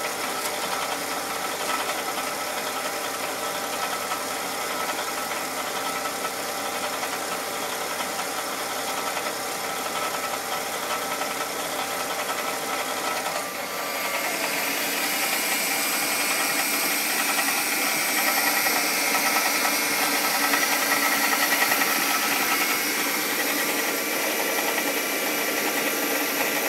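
2003 Mazda 6's 2.3-litre L3 inline-four running cold at idle with a loud knocking rattle, which appears only when the engine is cold and vanishes once it reaches operating temperature; its cause is unknown to the owner. The sound gets louder and sharper about halfway through.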